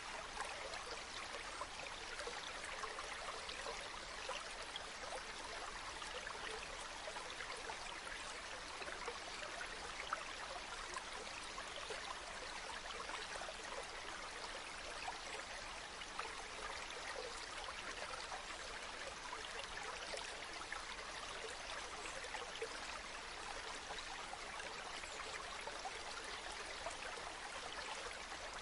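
Running water flowing and splashing steadily, a constant rush full of fine small splashes and trickles, with little deep rumble.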